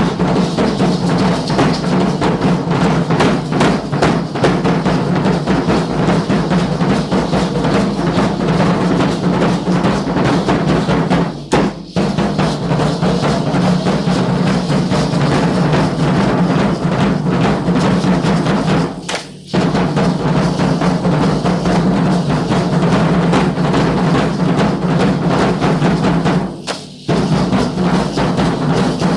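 Drums of a Guadalupana danza troupe beating a fast, steady rhythm, breaking off briefly three times and starting again.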